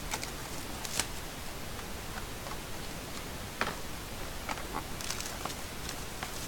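Steady background hiss with scattered light clicks and ticks at irregular intervals, the sharpest about a second in and again about three and a half seconds in.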